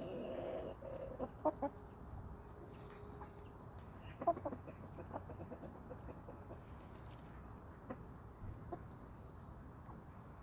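Domestic chickens clucking: a drawn-out call in the first second, then short clucks and sharp taps scattered through, with the loudest about a second and a half and four seconds in.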